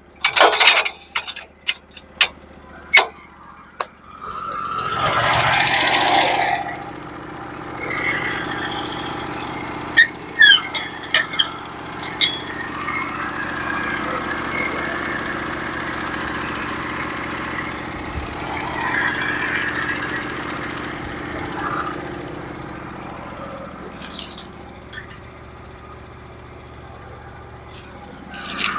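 Engine of a Norwood HD36v2 portable bandsaw sawmill running steadily, with louder swells now and then. Several sharp knocks and clatters come in the first few seconds.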